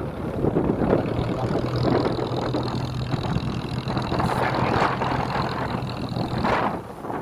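Passenger motorboat's engine running with a steady hum over a noisy wash of water and wind. The engine note drops away near the end.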